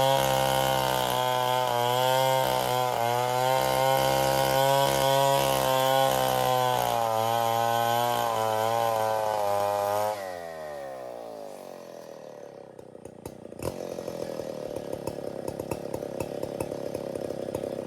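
STIHL 070 two-stroke chainsaw running at full throttle, its pitch wavering slightly as it works through the wood. About ten seconds in, the throttle is released: the engine note falls away quickly, and it settles into a quieter, ticking idle.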